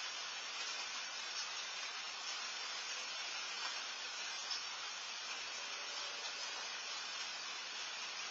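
Steady rain falling, an even hiss with a few faint drips ticking.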